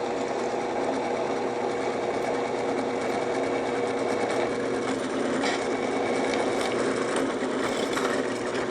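A shop power tool running steadily, with a constant whine.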